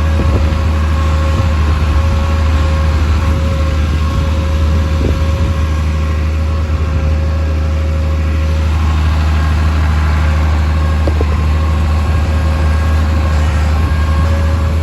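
An engine idling steadily: a deep, even drone that holds at one speed throughout.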